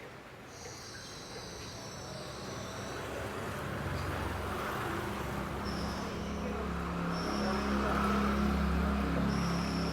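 Cucak cungkok giving high whistled notes: one long note in the first few seconds, then short notes several times. A motor vehicle's low engine rumble builds from about four seconds in and becomes the loudest sound.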